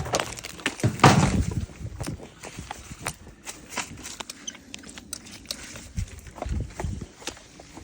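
Footsteps and handling noise: a string of irregular knocks, clicks and scuffs, loudest about a second in.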